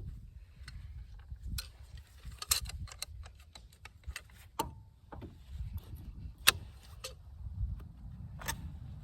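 Scattered light metallic clicks and clinks of small parts handled at a car's front wheel hub while the spindle nut, its retainer and cotter pin are fitted, with one clink ringing briefly about halfway through.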